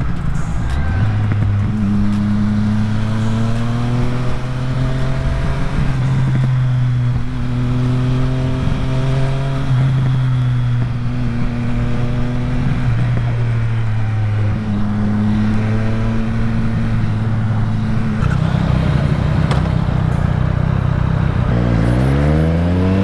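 Triumph Street Triple R's inline-three engine under way, its note holding steady and then changing pitch in steps several times with wind noise over it. Near the end it revs up sharply.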